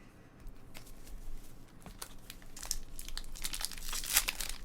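Wrapper of a trading card pack crinkling and tearing as it is opened by hand, in small crackles that get denser and louder near the end.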